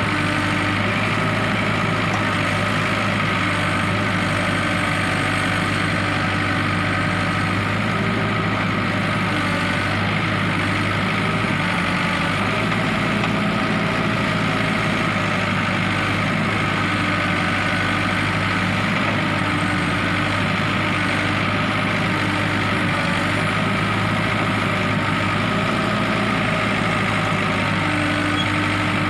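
Diesel engine of an ACE AX-130 backhoe loader running steadily, without revving up or down.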